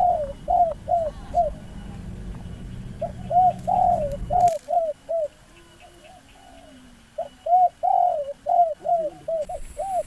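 Spotted dove (tekukur) cooing in repeated phrases of short, rounded notes, three bursts of song with pauses between. A low steady rumble sits under the first half and stops abruptly about four and a half seconds in.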